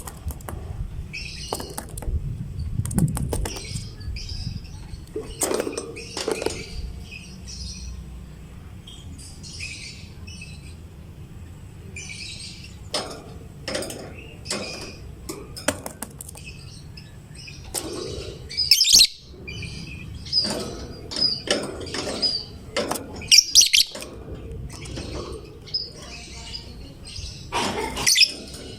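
Lovebird chirping in rapid, irregular bursts of short high-pitched notes, with a few sharper loud calls, the excited 'gacor' chatter of a fighter lovebird.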